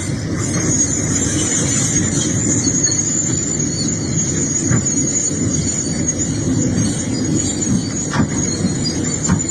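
Excavator working in rocky ground: a heavy machine's steady running rumble with a continuous high-pitched squeal over it, and a couple of short knocks near the end.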